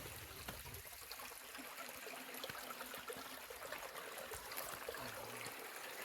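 Faint running water of a mountain stream, a steady hiss with a few light ticks scattered through it.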